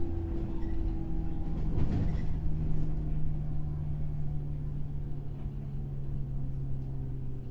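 Onboard running sound of a JR West 103-series electric motor car with MT55 traction motors: a steady low motor and gear hum over the rolling rumble, its tone sinking slightly. A short clatter of wheels over rail joints comes about two seconds in.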